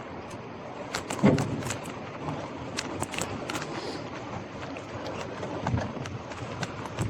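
Gravel bike ridden over a rough street surface: steady tyre and road noise with many sharp rattles and knocks from the bike, the loudest a thump about a second in.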